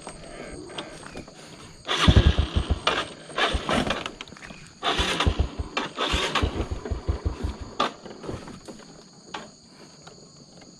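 Motorbike engine revving hard in two bursts, starting about two and five seconds in, as it labours over large rocks on a steep trail, then settling back toward a low idle near the end.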